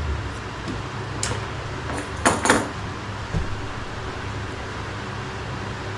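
Steady low hum, with a few short clicks and knocks from handling about one and two seconds in.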